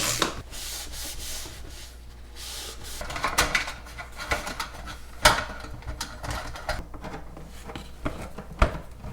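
Hands working on a fluorescent light fixture being rewired for LED tubes: scattered rubbing, scraping and light clicks, with a sharp knock about five seconds in and another near the end.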